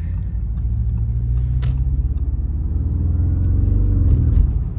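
Audi RS7 Performance's twin-turbo V8 running at low speed with a steady deep rumble, its note rising slightly about three seconds in as it picks up a little throttle.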